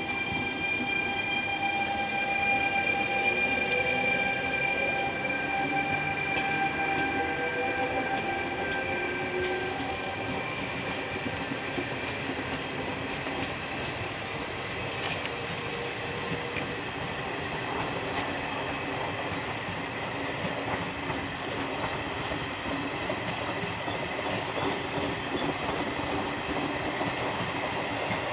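Regional train hauled by an FS E464 electric locomotive running past. A high whine made of several tones slides slightly and fades over the first ten seconds, over a steady rumble of the train rolling on the track.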